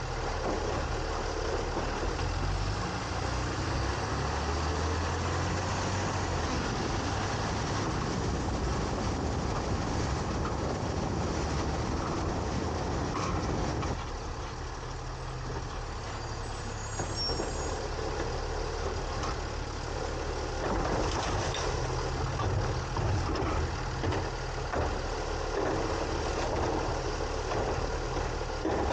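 Side-loading garbage truck with a New Way Sidewinder body running, heard from inside its hopper. The engine rises in pitch a few seconds in. The level drops about halfway through and picks up again later, as the truck works its automated arm and packer.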